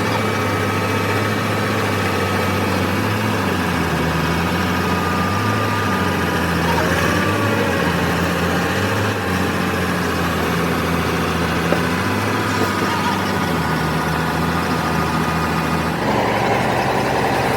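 Heavy diesel engine idling steadily, its speed rising and falling slightly every second or two.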